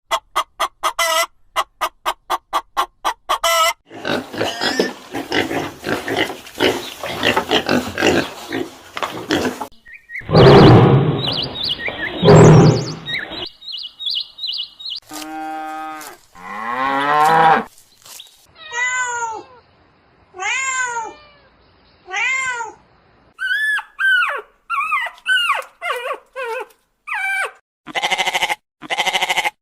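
A string of different animal calls one after another. It opens with a fast train of short pulsed calls, has a loud, deep call around the middle, and ends with a series of short, arching high calls about one a second.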